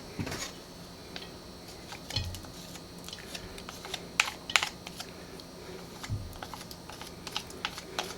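Sparse light clicks and a few soft knocks from kitchen utensils and a pot being handled.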